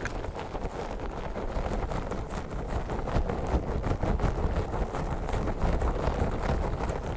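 A pink star toy handled close to the microphone for ASMR: a dense, continuous run of small crackling clicks over a low rumble.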